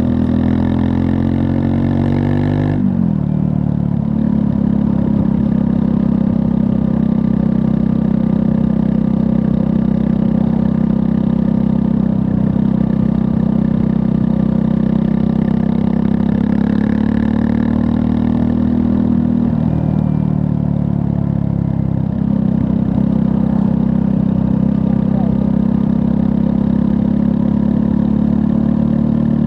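Triumph Scrambler 400 X's 398 cc single-cylinder engine under way. Revs rise for the first few seconds, drop sharply at a gear change about three seconds in, then run at steady revs with two brief dips a little past the middle.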